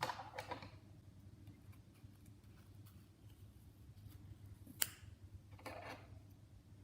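Yarn being wound by hand around a cardboard template: faint rustling with a few light clicks, one sharper click just under five seconds in.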